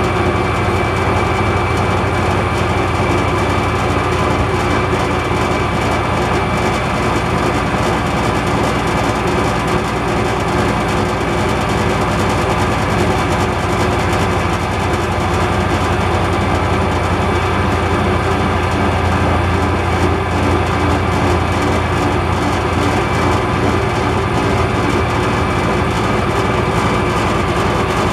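MAS metal lathe running steadily under power, a constant low hum with a thin high whine over it.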